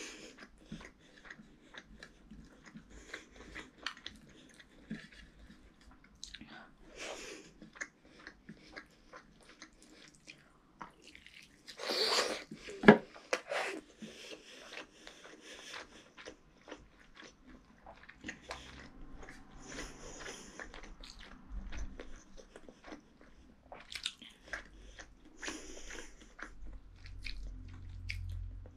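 A boy chewing a mouthful of rice and chicken curry that he eats by hand: many short mouth clicks and chewing noises, with a louder burst about twelve seconds in.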